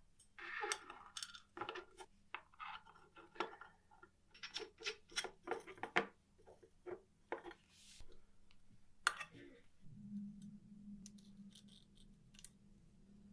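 Small hard objects clicking, tapping and clinking as they are handled on a work surface. From about ten seconds in, a low steady hum joins them.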